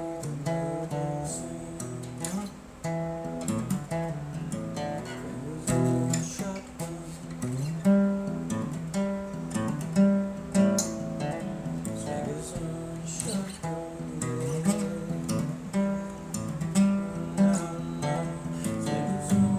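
Acoustic guitar playing a blues, with picked notes and strums and some notes sliding or bending in pitch.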